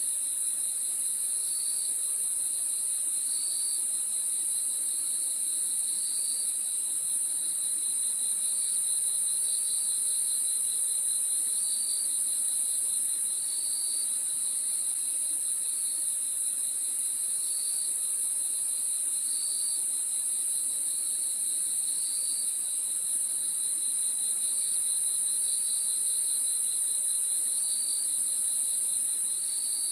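Crickets chirping at night: a steady high trill, with shorter chirps repeating about every second or two.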